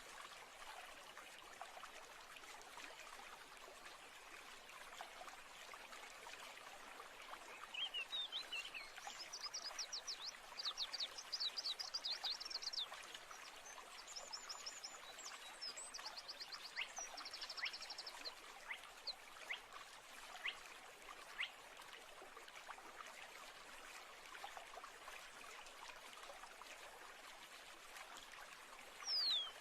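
Nature ambience of a steadily trickling stream, with birds singing rapid trilled phrases in the middle and a single falling whistled call near the end.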